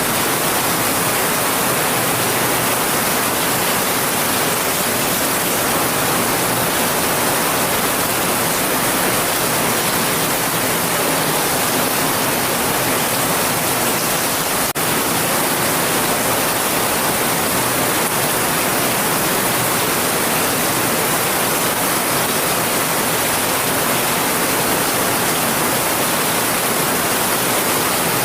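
Steady heavy rain, an even hiss with no pattern, broken by a single brief click and dip in level about halfway through.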